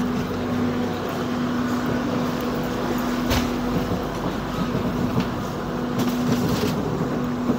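Passenger train carriage from inside while the train is running: a steady hum over a rumble of wheels on the rails, with a sharp knock about three seconds in and a few more knocks near the end.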